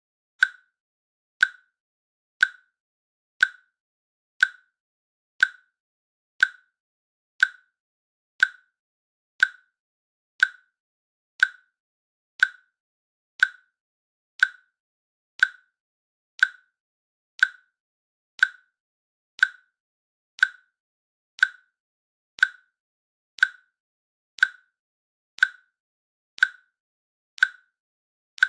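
Countdown timer clicking once a second: a short, sharp click with a brief tail, evenly spaced and steady, with silence between.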